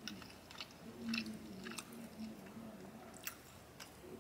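Close-miked chewing of a mouthful of chicken Alfredo: soft, wet mouth clicks and smacks, scattered and fairly quiet.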